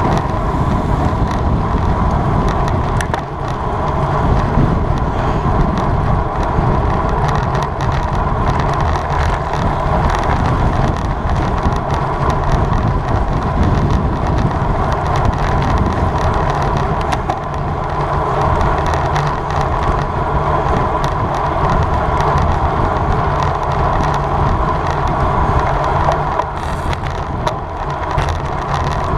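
Steady wind rush and tyre noise on a bicycle-mounted camera's microphone while riding a road bike.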